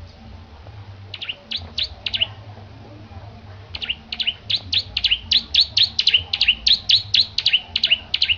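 Bar-winged prinia (ciblek) in full song: a quick group of four sharp chirps, then after a short pause a long, fast run of chirps at about four a second, over a steady low hum.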